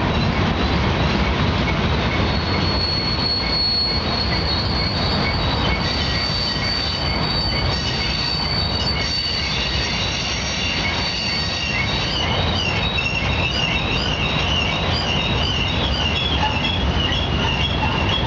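Freight train cars rolling past with a steady heavy rumble and high-pitched wheel squeal: a thin, steady squeal from about two seconds in until about eleven seconds, then wavering, fluttering squeals through the second half.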